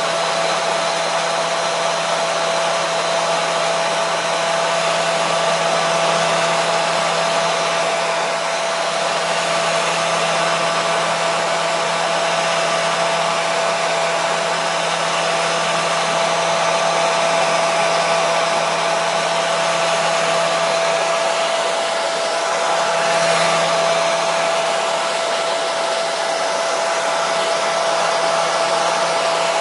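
Hair dryer running steadily: an even rush of air with a constant motor whine, unchanging throughout.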